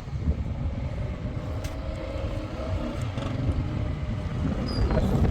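Steady low rumble, with a faint held hum through the middle.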